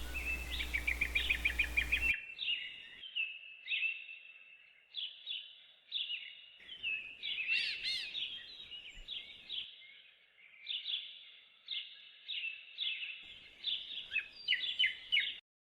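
Small songbird chirping: a fast trill for the first two seconds, then short, quick chirps in groups, until it cuts off suddenly near the end.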